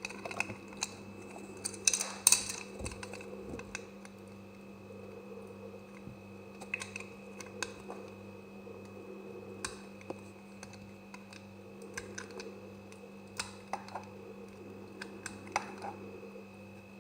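Knife cutting through semi-dry soap: irregular crisp clicks and crunches, densest and loudest about two seconds in, over a steady hum.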